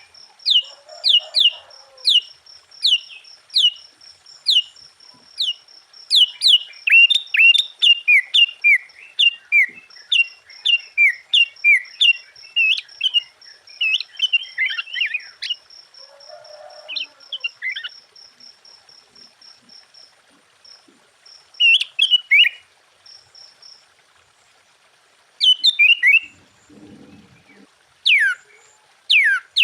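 Sooty-headed bulbul singing: rapid runs of sharp, falling whistled notes, thinning out after about twenty seconds and picking up again in a burst near the end. A fast, steady high-pitched ticking runs beneath the song for about the first two-thirds.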